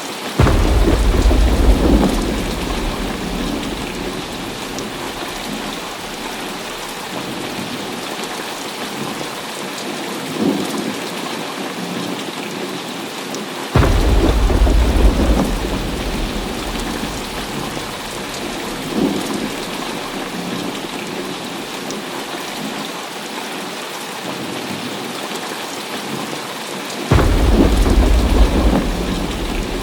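Heavy rain falling steadily, with three loud thunderclaps that each break suddenly and rumble away over a couple of seconds, roughly every 13 seconds. Two fainter rumbles fall between them.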